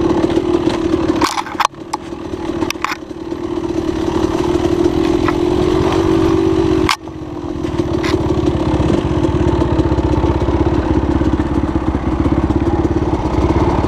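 Dirt bike engine running under throttle, cut off sharply about a second and a half in and again about halfway through, each time building back up to a steady drone. A few sharp clicks come with the first cut and again a second after the second.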